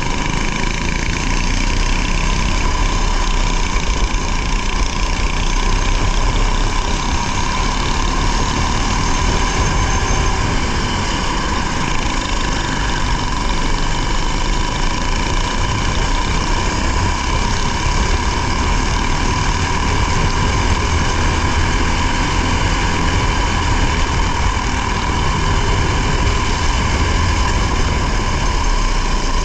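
Racing vehicle's engine running steadily, heard onboard, with an even level and no clear revving up or down.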